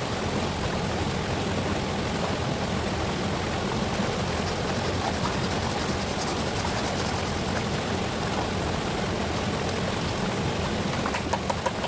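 River water rushing steadily. Near the end, four quick sharp taps or knocks sound in a row.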